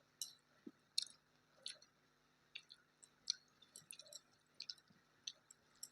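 A person chewing food close to the microphone. Soft, irregular wet clicks and smacks of the mouth come about two or three times a second, faint overall.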